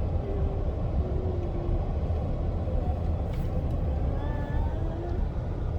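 Steady low rumble of road traffic, with a few faint short tones above it.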